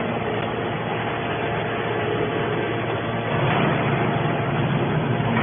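Hydraulic can baler's motor and pump running steadily: a continuous machine hum with several held tones, growing slightly louder a little past halfway.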